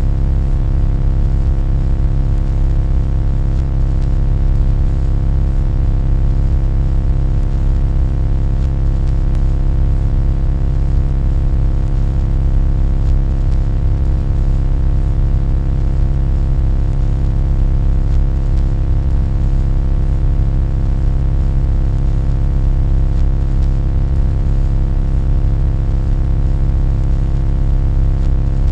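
A loud, unchanging low hum and rumble with a cluster of steady tones layered above it, like a droning noise played on a loop.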